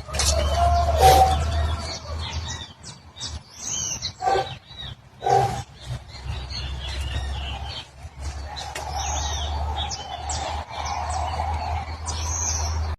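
Birds chirping and calling, many short calls overlapping, with a few louder, lower-pitched calls near the start and around the middle, over a low steady rumble.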